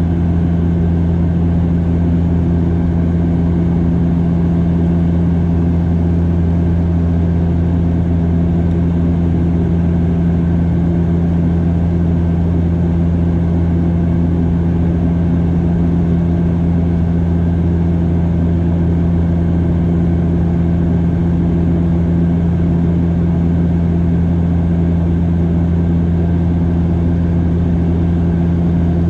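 Cabin sound of a Bombardier DHC8-Q400 turboprop in flight: the propellers' steady drone, a deep even hum with a second steady tone above it, unchanging throughout.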